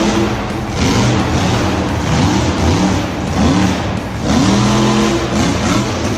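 Engine revving over and over, its pitch swelling up and falling back in quick repeated arcs.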